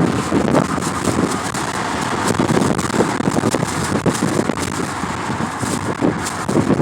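Wind buffeting the microphone: a loud, uneven, gusting rumble.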